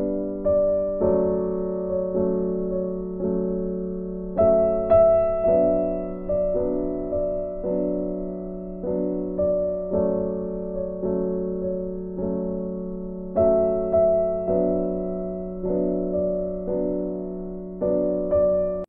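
Slow, gentle background piano music: chords struck about once a second, each fading away before the next.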